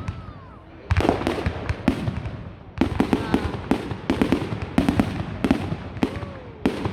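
Fireworks display: rapid volleys of sharp bangs and crackles from bursting aerial shells. The bangs come in dense clusters, one starting about a second in and another about three seconds in.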